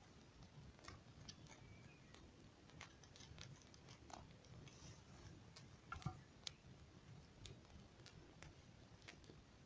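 Near silence with faint, scattered clicks and ticks, one a little louder about six seconds in.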